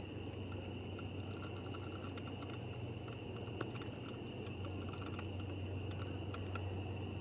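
Fishing reel clicking in quick, irregular ticks as a hooked sturgeon pulls against a tightly set drag, over a steady low hum.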